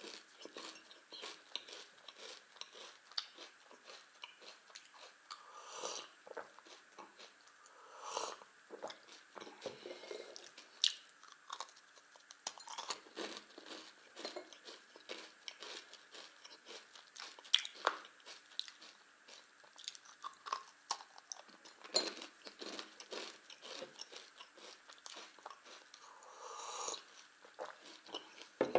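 Close-up chewing and crunching of multigrain candy with a white glaze: an irregular run of small crunches and crackles.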